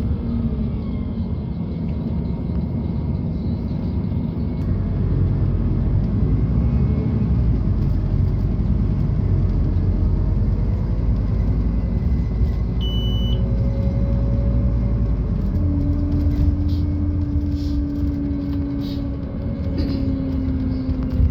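Scania Citywide LFA CNG bus heard from inside, its Scania OC09 five-cylinder gas engine and drivetrain rumbling under way, louder from about five seconds in. A short high beep sounds about halfway through, and a steady drivetrain whine comes in for the last several seconds.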